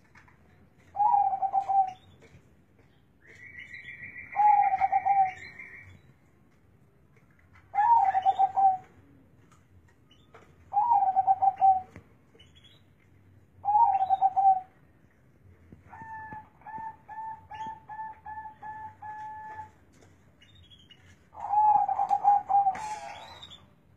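Zebra dove (perkutut) cooing in short repeated phrases about every three seconds, a deep, bassy voice. One phrase is a run of about eight quick staccato notes, and a thin higher trill sounds early on alongside one of the coos.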